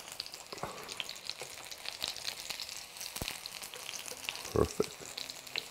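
Zucchini fritters sizzling and crackling as they shallow-fry in olive oil, with a couple of light clicks of a slotted spatula against the non-stick pan as they are turned.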